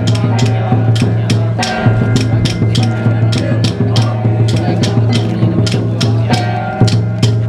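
Temple procession percussion music: sharp drum and cymbal strikes on a steady beat, about three a second, over a sustained low tone with ringing metallic overtones.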